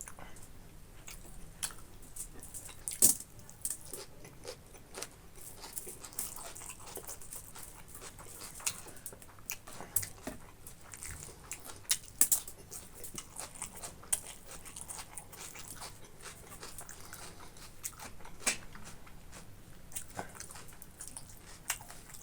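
Close-miked chewing of a meal of boiled pork and rice: irregular wet smacks, clicks and crunches from the mouth, a few of them sharp and loud.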